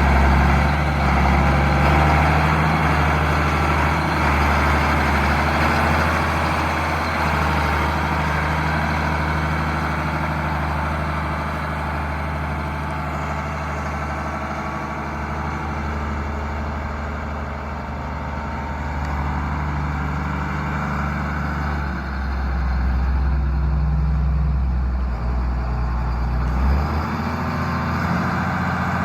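Case IH 7120 Magnum tractor's six-cylinder diesel engine running steadily; its note gets a little louder near the end and then drops in pitch.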